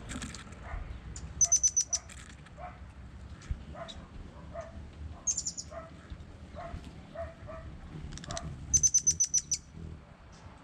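A small songbird giving three bursts of rapid, sharp, high-pitched notes, a quick stuttering trill each time, with a lower call repeated about twice a second behind it.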